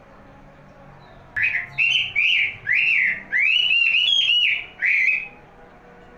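A wambi cililin songbird singing a phrase of about eight loud, clear whistled notes, each rising and falling in pitch, quickening into a rapid run in the middle before it stops about a second before the end.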